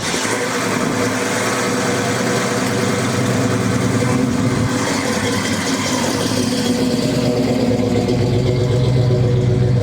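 Car engine idling close by, a steady rumble that grows deeper and fuller about seven seconds in.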